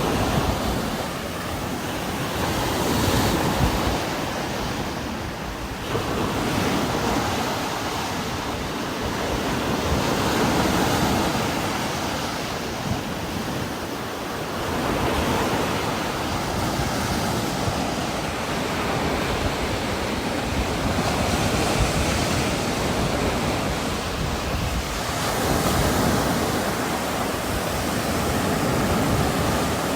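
Heavy rain with strong wind gusting through trees, a dense steady rush that swells and eases every few seconds.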